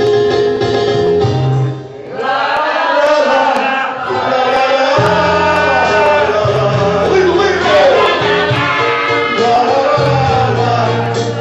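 A song: a voice singing over backing music with steady bass notes, with a short drop in loudness about two seconds in.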